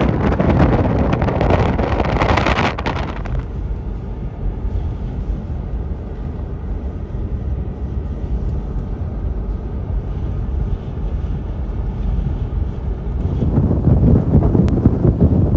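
Blizzard wind buffeting the microphone, a loud, steady low rumble. The noise drops back about three seconds in and grows again near the end.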